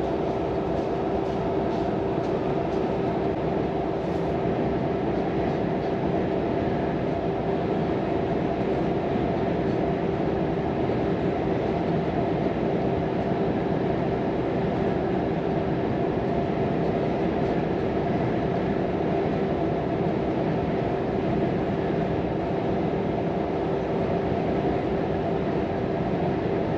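Volvo FM 420 truck's 13-litre six-cylinder diesel and road noise heard from inside the cab while cruising at a steady speed. A steady drone with an even hum and no changes in pitch.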